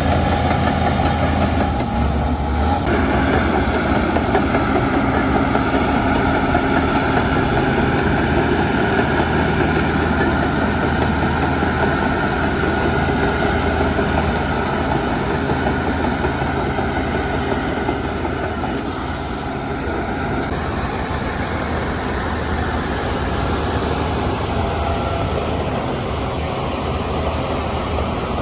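Heavy diesel earthmoving machinery, a bulldozer and dump trucks, running steadily under load with a dense mechanical rattle. It eases off a little about twenty seconds in.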